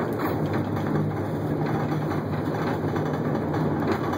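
Moving truck running, heard from inside its enclosed cargo box: a steady low engine and road drone with a few faint knocks.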